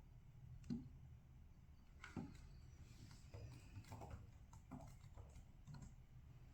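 Near silence: low room hum with a few faint, scattered taps and clicks, a sharper click about a second in and another about two seconds in.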